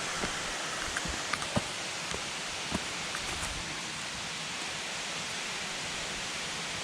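Steady rushing of jungle stream or waterfall water, with a few light knocks and snaps in the first three seconds.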